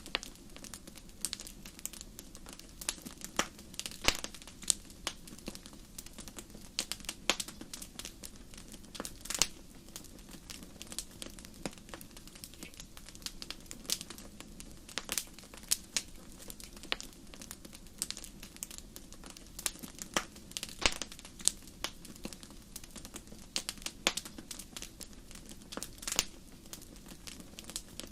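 Wood fire crackling and popping in a fireplace: irregular sharp snaps, several a second, with a few louder pops, over a low steady hiss of the flames.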